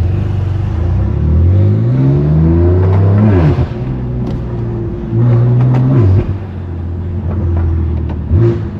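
BMW M3's S55 twin-turbo inline-six with a straight-pipe exhaust pulling under acceleration: the engine note climbs for about two and a half seconds, drops sharply at a gear change, rises again briefly about five seconds in and drops again, then settles to a lower steady drone.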